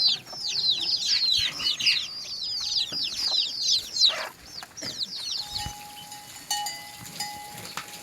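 Chicks cheeping in a rapid, overlapping chorus of high, falling chirps that stops about four seconds in. A steady ringing tone then starts, breaking off and resuming several times.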